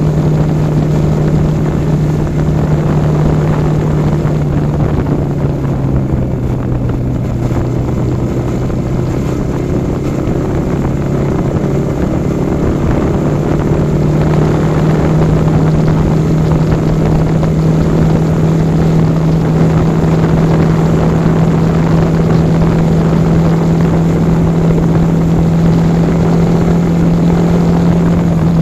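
Yamaha R15 V4 motorcycle's single-cylinder engine running steadily while riding. Its note drops about five seconds in, climbs back around fourteen seconds and then holds steady.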